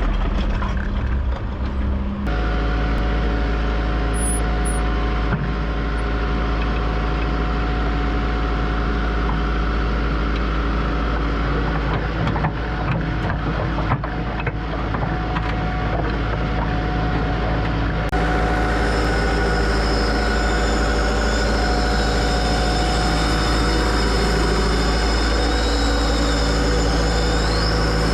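Heavy diesel engine running steadily, stepping up to a higher, louder speed about two seconds in, with a few short knocks over it partway through.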